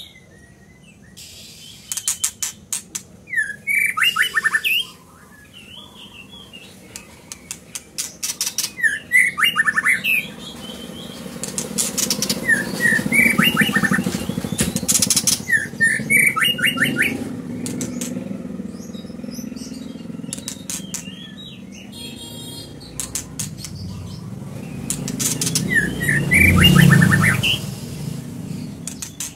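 A white-rumped shama (chích chòe lửa) singing in varied, repeated phrases, mixed with runs of rapid sharp clicking notes. Low rustling swells up twice, loudest about 27 seconds in.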